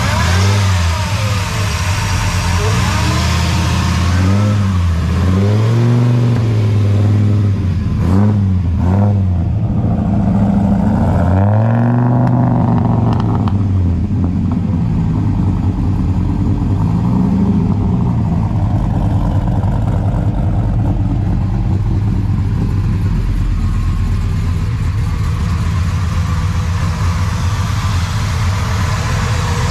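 Dodge Ram SRT-10 Viper truck's V10 engine with headers, revved several times in the first half, pitch rising and falling with each blip, then settling to a steady idle.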